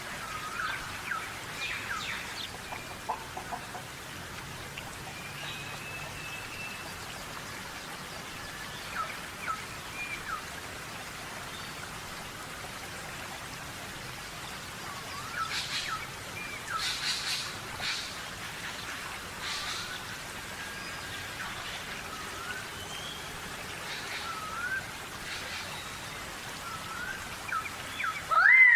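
Birds dust-bathing in sand: a steady rain-like patter of flicked sand, with scattered short chirps and rising calls and a few sharp scratchy strokes. One loud rising call comes near the end.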